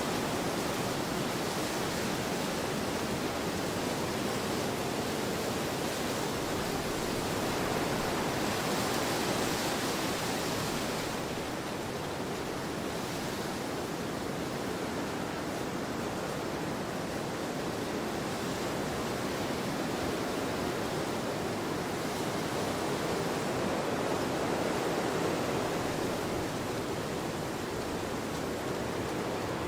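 Wind blowing steadily across an open field: an even rushing hiss that swells slightly, with brighter highs, around ten seconds in, then eases.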